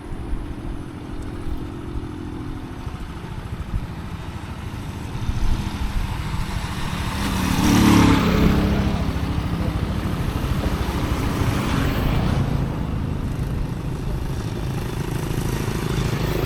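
Motor vehicle running with a steady low rumble, and a louder swell that rises and falls about eight seconds in, like another vehicle passing.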